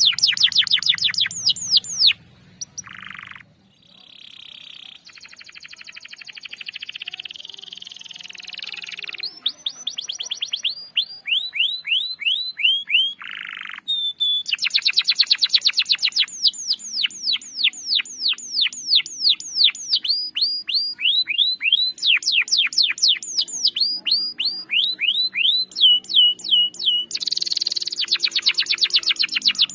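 Domestic canary singing long rolling trills, fast runs of repeated falling notes, broken by short buzzy notes and brief pauses. This is lure song meant to set a silent canary singing.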